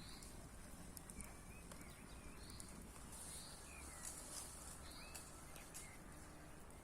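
Faint bird calls: short chirps and quick whistled squiggles, a few every second or two, over a steady outdoor hiss.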